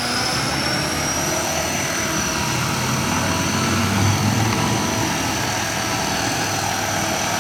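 Electric motor and rotors of a small remote-control toy helicopter running: a high whine that climbs a little over the first couple of seconds and then holds steady, over a whirring rotor noise.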